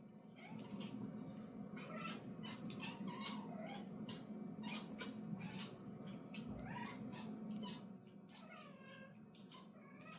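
A kitten making a series of short chirping calls at a fishing-rod toy, the excited chirp of a cat watching prey, among light clicks and taps.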